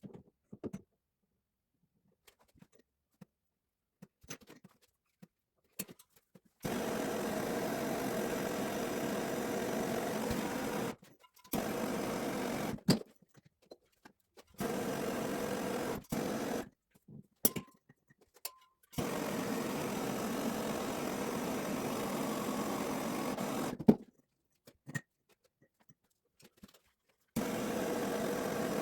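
A small electric power tool's motor running steadily in several separate runs of a few seconds each, starting and stopping abruptly, with a constant pitch.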